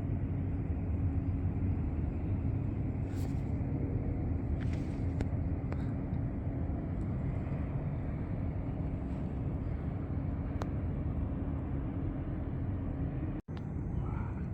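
Steady low rumble of a running vehicle with a faint steady hum, broken by a sudden brief dropout near the end.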